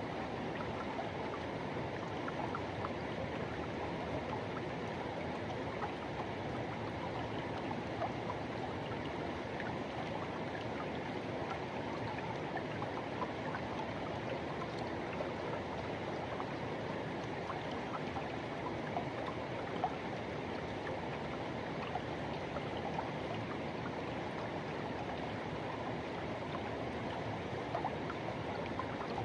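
Forest river rushing and gurgling over rocks, a steady unbroken flow with small splashes here and there.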